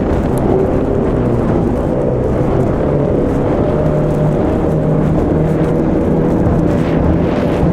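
Two-stroke 25 horsepower outboard motor running hard at steady throttle, with water and wind rush around it; the engine note steps up slightly about halfway through.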